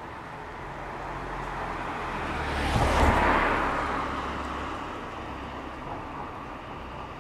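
A car passes by on the street: its tyre and engine noise swell to a peak about three seconds in, then fade away.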